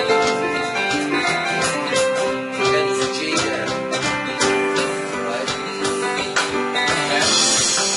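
Guitar strumming chords in a steady rhythm, part of a simple C–F–G chord progression being practised.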